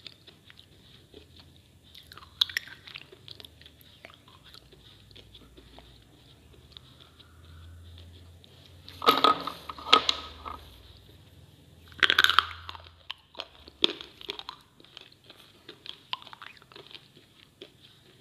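Slate pencils and slate pieces being chewed: a steady run of small dry crunches, with louder bursts of crunching about halfway through and again a few seconds later.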